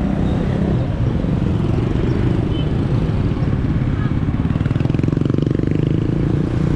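Motorcycle engine running on the move, a steady low rumble whose regular engine beat grows more distinct about five seconds in.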